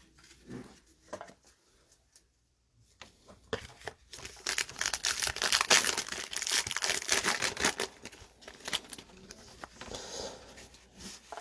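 Plastic foil wrapper of a trading-card pack being torn open and crinkled, a dense crackling stretch of a few seconds starting after a short pause, then fading.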